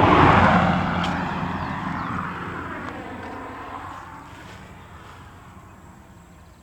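A road vehicle passing close by and fading away, loudest at the start and dying down over about five seconds.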